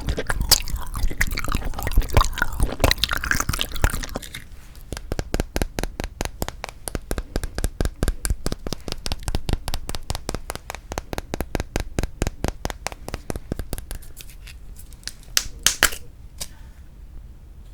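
Plastic packaging of a frozen yanggaeng (sweet bean jelly) being handled: crackly crinkling for a few seconds, then a long run of even sharp clicks about five a second, with a couple of loud cracks near the end.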